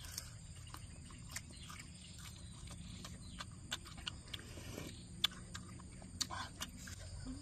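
Close-up eating sounds: chewing with irregular crisp crunches and lip smacks as raw green herbs and grilled food are bitten and chewed.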